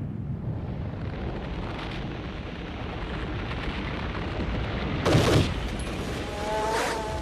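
Low, steady rumble of a Tannerite explosion rolling on, with one sharp crack about five seconds in. A short falling tone follows near the end.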